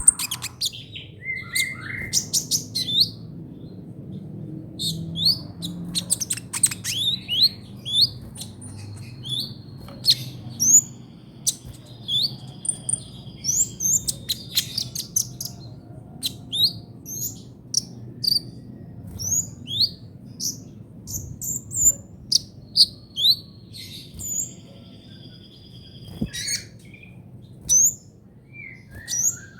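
Sunbird of the kind Indonesian keepers call "kolibri ninja" singing a rapid, stuttering trotol song of short high chirps and twitters, with a couple of longer held whistles partway through. A faint low hum runs underneath.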